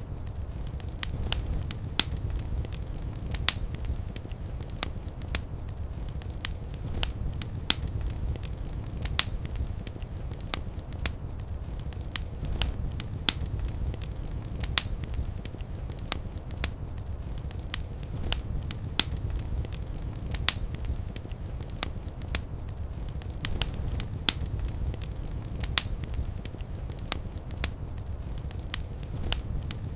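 Wood fire in a fireplace crackling: sharp, irregular pops and snaps, several a second, over a low, steady rumble.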